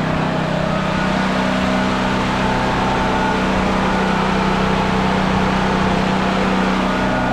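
Firman T07573 tri-fuel portable generator running steadily at one constant engine speed. The owner feels the RPM sounds a little high, staying up rather than dropping to a low idle.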